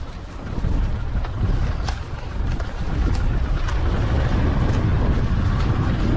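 Vehicle driving slowly along a rough dirt bush track: a steady low rumble with scattered knocks and rattles, louder from about half a second in.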